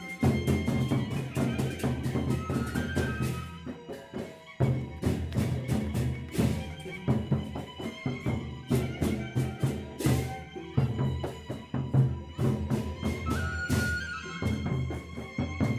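Gendang beleq ensemble playing: large Sasak drums beaten in a dense, driving rhythm with cymbal clashes, under a suling bamboo flute carrying the melody. The rhythm slackens briefly about four seconds in, then picks up again.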